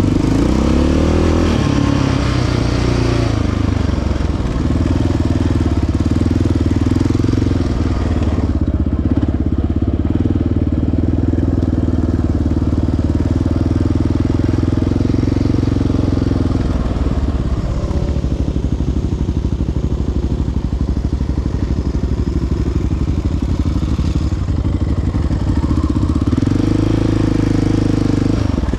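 Single-cylinder four-stroke ATV engine running under throttle, its pitch gliding up and down in the first few seconds, then holding steady, with another rise in revs near the end.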